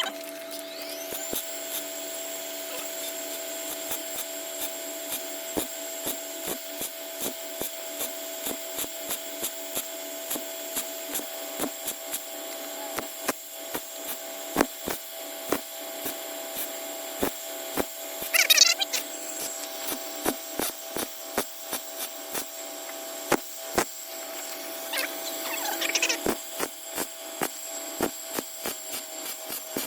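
Handheld power grinding tool working over welds on car body sheet metal: its motor spins up about a second in and then runs steadily with a high whine, with scattered ticks and two brief squeals as it grinds.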